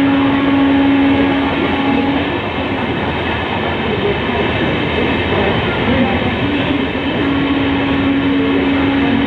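Express train running through a station at speed behind an electric locomotive, a steady rumble and rattle of passing coaches. A long steady horn note sounds at the start and again near the end.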